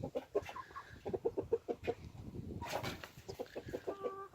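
Domestic chickens clucking: a run of short, quick clucks, with one longer, steady call about three and a half seconds in.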